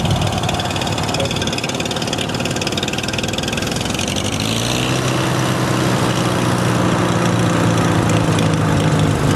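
Farmall H tractor's four-cylinder gasoline engine idling roughly. About four and a half seconds in, it picks up speed slightly.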